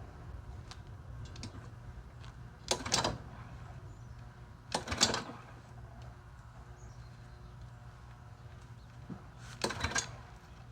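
Three short knocks or clunks, about 3 s, 5 s and 10 s in, over a steady low hum.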